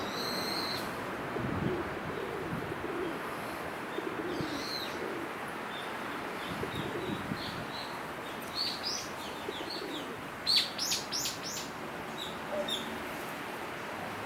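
Birds calling over steady background noise: a high call right at the start, low calls in the first half, and a quick run of short, high, sharp chirps about two-thirds of the way through.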